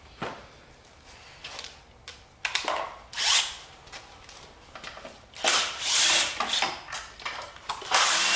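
Handheld power tool running in several short bursts of about a second each, spinning fasteners off the engine.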